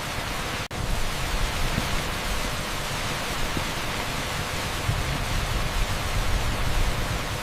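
Torrential rain on an asphalt street blended with a strong pink-noise layer: a dense, even hiss with a low rumble underneath. Less than a second in, it drops out for a split second, as at a loop seam.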